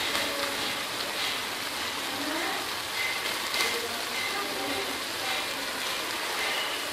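Mutton keema sizzling steadily in a steel karahi on the stove.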